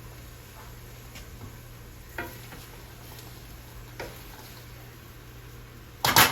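Chopped vegetables sizzling quietly in a hot pot over a steady low hum, with a few soft scrapes and clicks of stirring. A short, loud clatter of kitchenware comes near the end.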